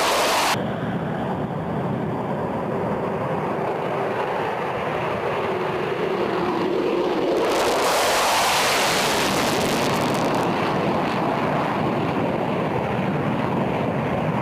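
Jet fighter engine noise, a steady loud rushing sound. Its high hiss drops away abruptly about half a second in and swells back up about halfway through.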